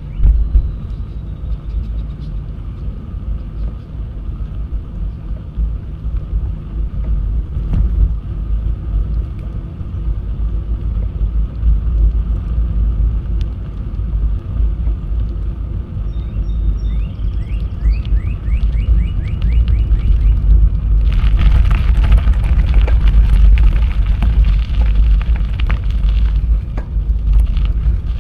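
Wind rumbling heavily on the microphone during a bicycle ride, with a steady low roar. A quick run of short chirps comes just past the middle, and about three quarters of the way through a loud hiss sets in and stays.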